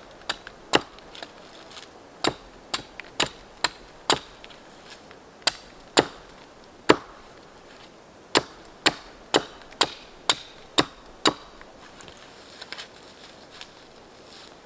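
Axe chopping wood: sharp separate strikes, unevenly spaced at first, then a steady run of about two strikes a second, ending with a few faint taps.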